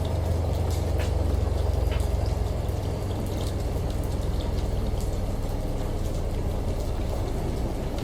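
Layered home water ambience: a washing machine's low hum, strongest in the first two or three seconds and then fading back, under running water and a scatter of small drips and rain drops.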